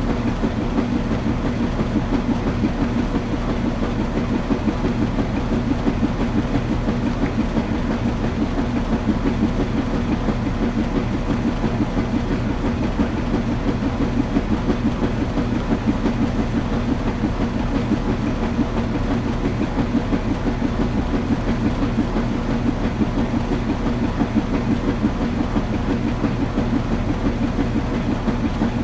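Washing machine running: a steady motor hum with a fast, even rhythmic pulsing.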